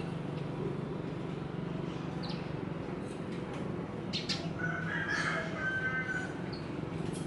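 Birds calling over a steady low background hum: a few short chirps, then a drawn-out call a little over four seconds in that lasts about two seconds.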